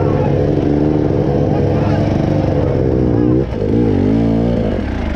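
Off-road motorcycle engine revving hard under load, its pitch dropping and climbing again about three and a half seconds in.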